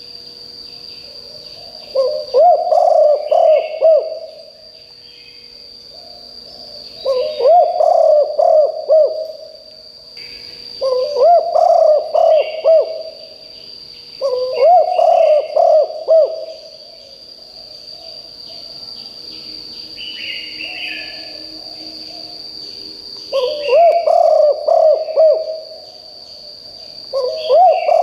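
Spotted dove cooing in repeated phrases of several low notes, each phrase about two seconds long. There are six phrases, the last one cut off at the end.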